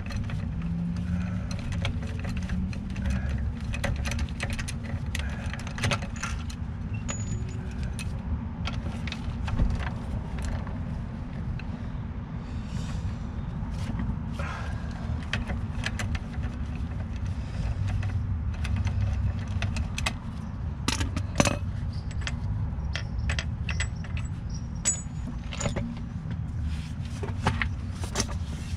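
Steady low drone from the 1981 Mercedes 300SD turbo diesel, with irregular clicks, rattles and jingling scattered throughout. It is a noise from the car that the owner suspects comes from the brake pads or tie rods.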